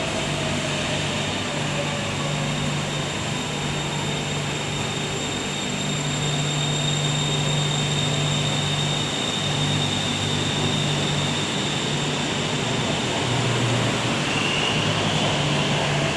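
BTS Skytrain electric train at an elevated platform, running steadily with a low hum and high-pitched tones, then pulling away with a rising whine near the end.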